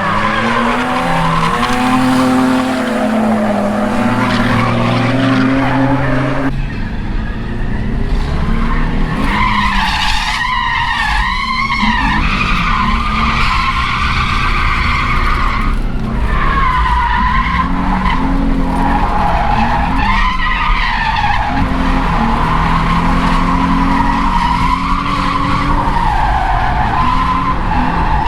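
Drift car sliding: the engine is held high in the revs, its pitch rising and falling with the throttle, under long wavering tyre squeal. The whole sound changes abruptly about six and a half seconds in.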